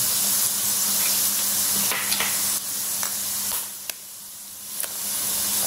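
Hot coconut oil sizzling in a frying pan with onion, green chilli and garlic as eggs are dropped in, with a few light clicks. The sizzle dips briefly about four seconds in, then comes back.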